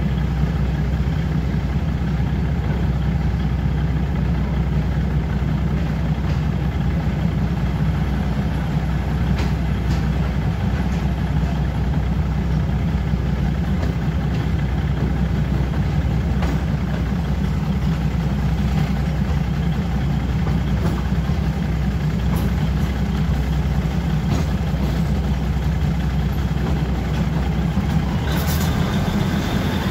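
Diesel train engine idling steadily with a deep, even drone. There is a short sharp sound near the end.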